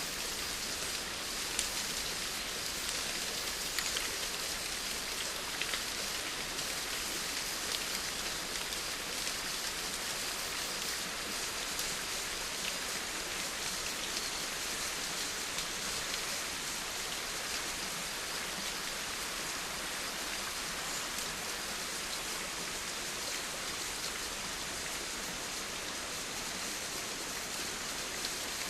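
Steady rain falling, an even hiss with scattered individual drops ticking sharply in the first half.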